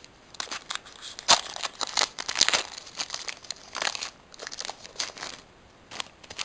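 Foil booster-pack wrapper being crinkled and torn open by hand, an irregular run of crackles with a sharp snap a little over a second in, thinning out near the end.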